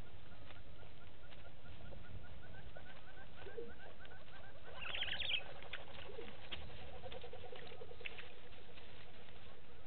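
Birds calling in open bushveld: a steady series of short rising chirps, a brief loud burst of higher calls about five seconds in, and a run of lower repeated notes just after it, over a steady low background noise.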